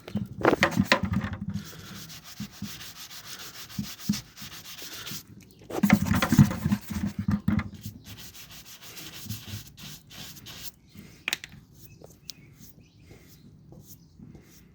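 Stiff scrub brush scrubbing baked-on dirt off a Honda CRF300L's exhaust head pipe in quick back-and-forth strokes. The scrubbing is heaviest in the first second or two and again around six seconds in, then turns lighter and more broken.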